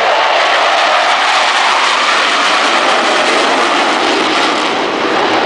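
Jet aircraft flying past with a loud, steady roar.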